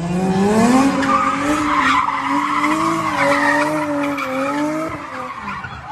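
A car skidding with its engine at high revs: a pitched engine drone climbs over the first second and then holds, with tyre noise, before fading near the end.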